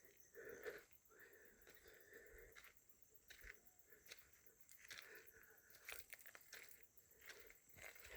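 Faint animal calls, repeated several times, with scattered clicks and crackles.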